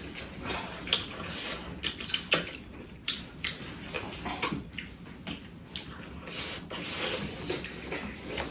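Close-up eating sounds: wet chewing and mouth smacks, with irregular short clicks and smacks throughout.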